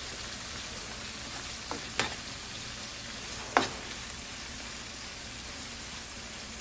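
Oil sizzling steadily in a pot on the stove as a gravy is started, with two sharp knocks, about two and three and a half seconds in.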